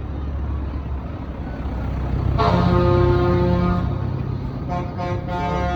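Tractor engines running with a steady low rumble, and about two and a half seconds in a horn sounds once for over a second.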